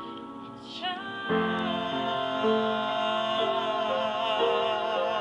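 A solo voice singing long held notes with a wide vibrato over sustained keyboard chords that change every half second or so. The music grows fuller about a second in.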